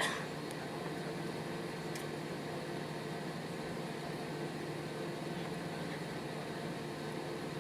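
Steady cabin hum inside an Airbus A320-214 on the ground before takeoff, from the air conditioning and idling engines, with a faint steady drone. A short click right at the start.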